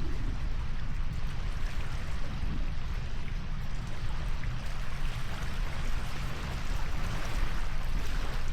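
Steady rushing of water with a low rumble underneath.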